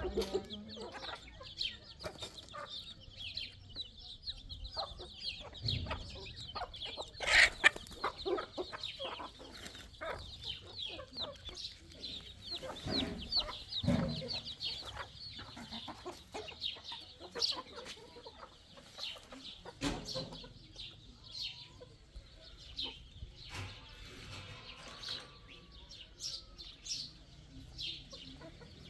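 Chickens clucking, with a constant chatter of many short high calls, and a sharp knock about seven seconds in.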